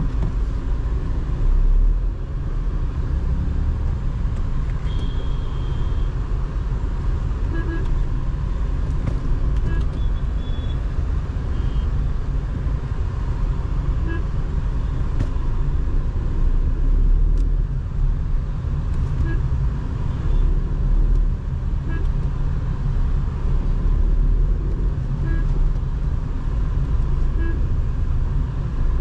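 Tata Nexon driving in city traffic, heard from inside: a steady low engine and road rumble, with short car horn toots from the traffic, one about five seconds in and another near ten seconds.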